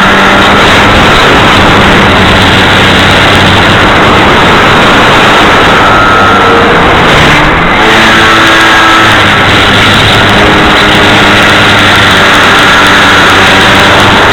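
Motor and propeller of an R/C Cessna model plane in flight, heard from a camera on its wing, buried in loud, steady wind rush. The motor's tones shift in pitch about seven to eight seconds in, as the throttle changes.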